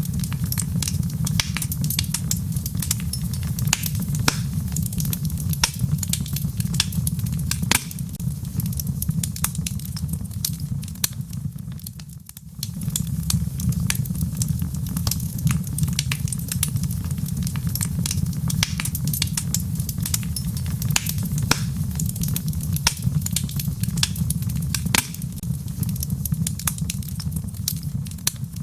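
Wood fire burning in a fireplace: a steady low rumble of flame with frequent sharp crackles and pops from the logs. It dips briefly about twelve seconds in.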